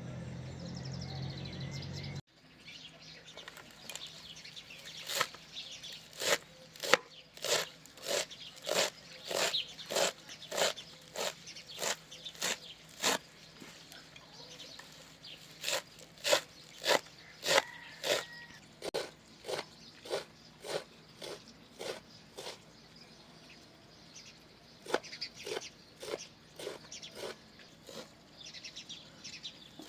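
Knife chopping on a cutting board in steady strokes, a little under two a second, with a short pause near the middle and sparser cuts near the end.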